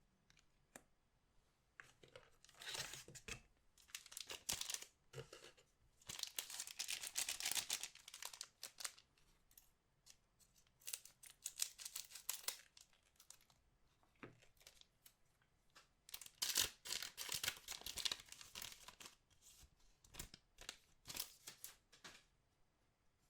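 Trading card pack wrappers being torn open and crinkled, in several bursts of tearing and rustling with short pauses between them.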